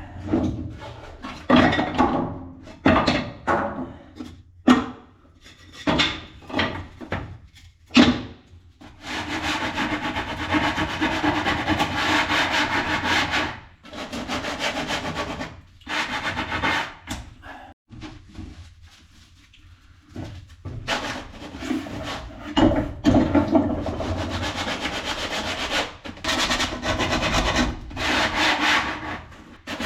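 Wood being worked by hand: a quick run of short scraping strokes, then longer stretches of steady rasping rubbing on wood, with short pauses between them.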